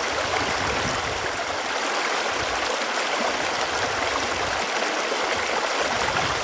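Running water, a steady, even rush without pause.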